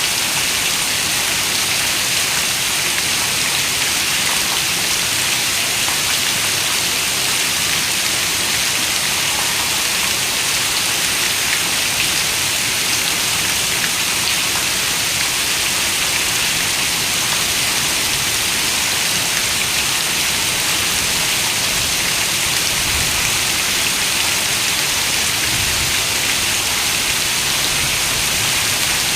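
Heavy rain falling steadily on a window, a dense, even hiss of raindrops with no break.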